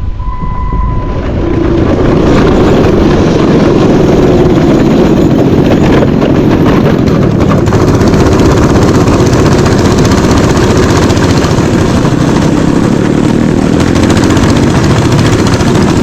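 Mini bike engine running under throttle while riding a trail, getting louder about a second and a half in and then holding steady.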